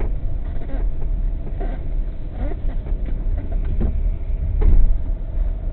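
Car in motion, heard from inside the cabin: a steady low rumble of engine and road noise.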